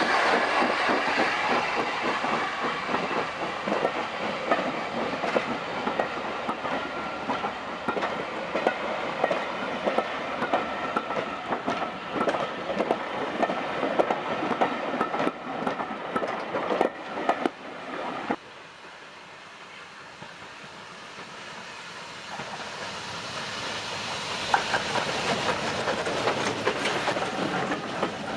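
A train running on the track, its wheels clicking over the rail joints. About two-thirds of the way through the sound drops off suddenly, then builds again toward the end.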